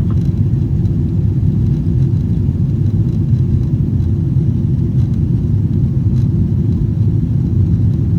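Steady low rumble of a Boeing 777-300ER's GE90 jet engines and airflow, heard inside the passenger cabin.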